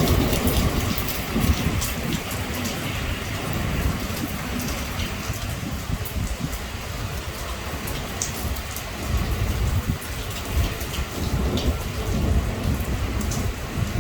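Heavy rain pouring steadily in a thunderstorm, with sharp ticks of drops striking close by. A low rumble swells and fades underneath, strongest at the start and again about ten to thirteen seconds in.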